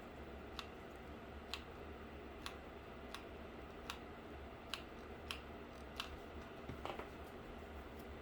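Scissors snipping cardboard: a series of sharp single snips, roughly one a second, with a quick cluster of snips about seven seconds in.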